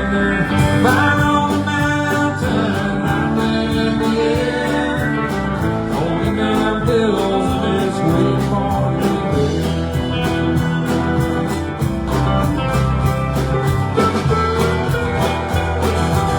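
Live country-rock band playing an instrumental passage: guitar over bass and drums with a steady beat.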